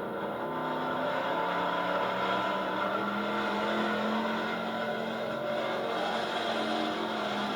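Altered gas class pulling truck's engine running hard and steady. Its pitch rises slightly about three seconds in, then holds.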